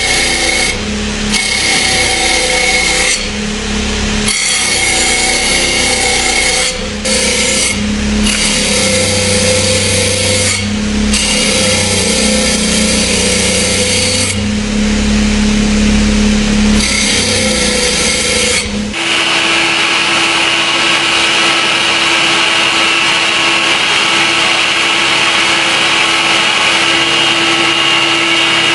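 Power tool working on the steel of a rusted knife blade, running in stretches with short stops. About two-thirds of the way in the sound changes abruptly to a steadier, higher-pitched hum and hiss.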